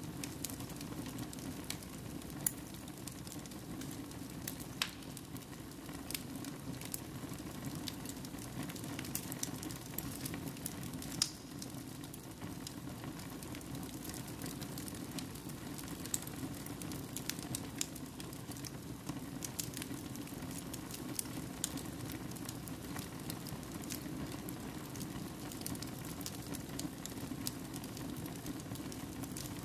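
Fire burning in a fireplace: a steady low rushing of flames with irregular sharp crackles and pops scattered throughout.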